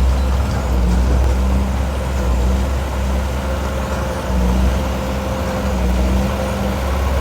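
Heavy diesel engine of earthmoving machinery running steadily under load, a deep, constant engine note that dips slightly and swells again about halfway through.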